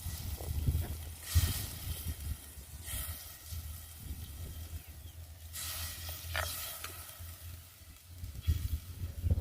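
Food cooking in a pot, hissing and sizzling in several surges over a low rumble.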